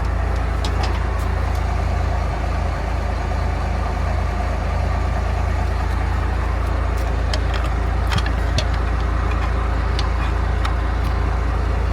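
An engine idling steadily, a constant low drone, with a few light metallic clicks about eight seconds in.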